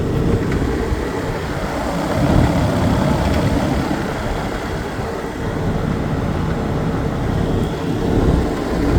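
1999 5-ton Rheem Classic X air conditioner running, its Tecumseh AV reciprocating compressor making a steady, rapid knocking over a low hum, a knocking that does not sound good.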